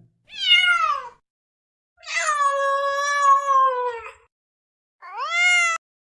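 Domestic cat meowing three times. The first meow is short and falls in pitch, the second is long and drawn out, and the third rises and then cuts off suddenly near the end.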